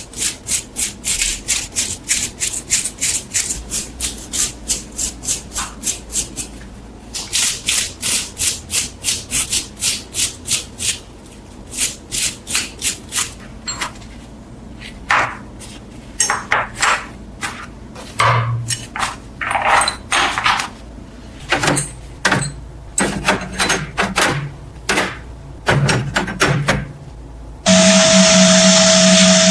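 Repeated hand rubbing or abrading strokes, two to three a second, with a short break about seven seconds in and turning uneven in the second half. Near the end a power tool starts with a steady hum.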